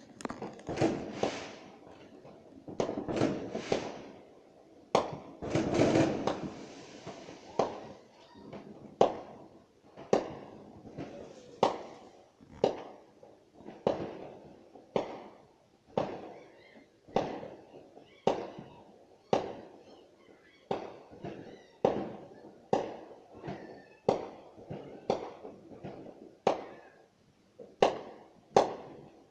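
Fireworks going off: a quick run of bangs and crackle over the first several seconds, then single sharp bangs about once a second, each with a short echoing tail.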